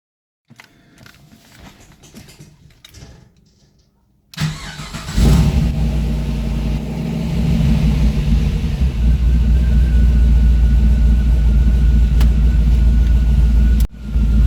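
Turbocharged GM LS V8 in a 2002 BMW 540i Touring, cold start. After a few seconds of faint clicks, the starter cranks for about a second, then the engine catches and runs at a loud, steady idle. The sound drops out briefly near the end.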